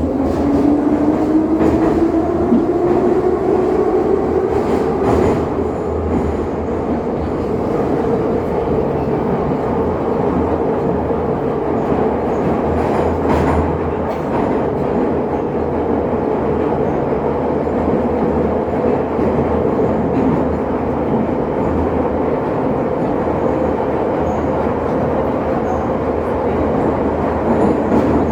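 Metro train running in the tunnel: the traction motors' whine rises in pitch over the first few seconds as the train accelerates, then holds steady at running speed over a constant rumble of wheels on rail, with a few brief knocks.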